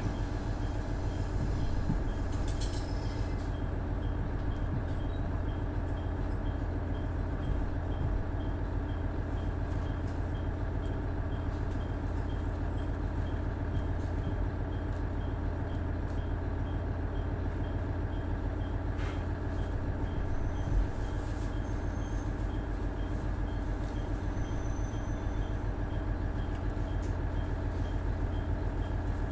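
Cummins DMF14HZA diesel engine of a KiHa 110 series railcar running steadily at an unchanging pitch, with a strong low hum. A faint high tick repeats about two to three times a second, and there are a few brief clicks.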